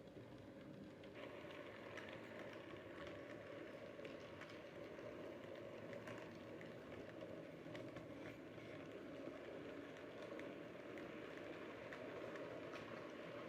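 Model train running along the track: a steady low motor hum and wheel rumble with scattered faint light clicks.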